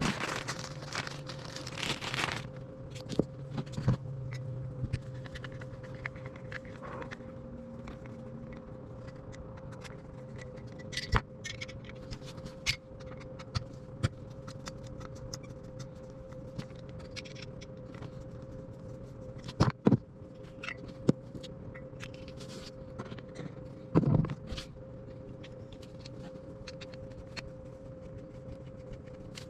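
Hand tools and metal parts clicking, scraping and knocking in scattered strokes as bolts and screws are worked out of a Champion portable generator's housing to swap its CO sensor, over a steady low hum.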